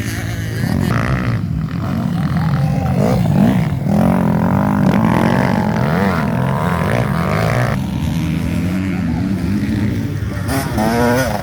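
Motocross bike engines revving up and down as they race past, several engine notes overlapping and rising and falling in pitch.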